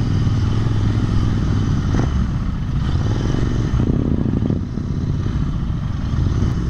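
Motorcycle engine running steadily at low revs, loud and close.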